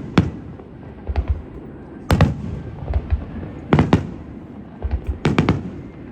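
Aerial fireworks shells bursting in quick succession: sharp bangs, often in close pairs, about once a second, many followed by a low rumbling boom.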